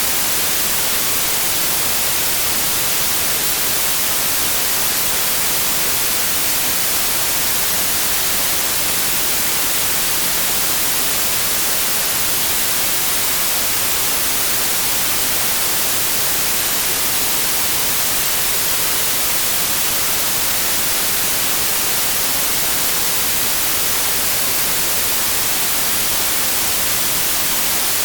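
Steady synthetic white noise: an even, unchanging hiss across all pitches, strongest in the treble.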